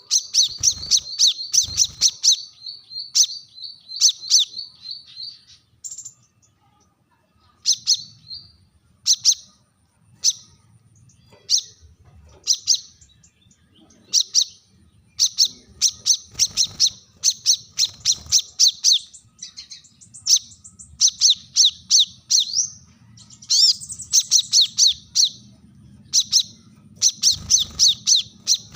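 Brown-throated sunbird (kolibri kelapa) calling in rapid bursts of sharp, high chirps, with short pauses between the bursts: a sharp challenge call aimed at a rival.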